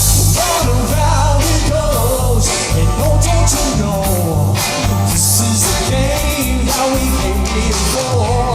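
A singer with a band performing an upbeat 1980s pop-rock song: the vocal melody runs over electric guitar, bass and a steady drum beat.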